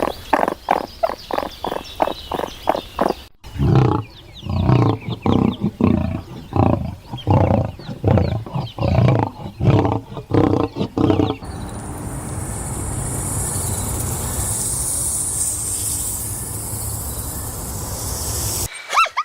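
A string of animal calls from several clips cut together: quick repeated calls at about five a second, then after a sudden cut a series of lower, irregular repeated calls. About eleven seconds in these give way to a steady hiss, cut off sharply near the end.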